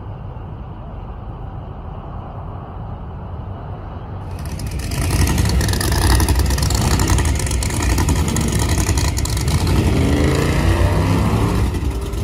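A classic first-generation Chevrolet Camaro's engine rumbling at low speed; about four seconds in, a cut to much louder drag cars' engines running as they creep past, with a rapid ragged popping and a rise in pitch near the end.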